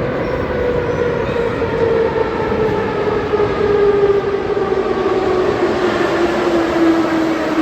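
Moscow Metro train running, its motor whine gliding steadily down in pitch over the rumble of the wheels.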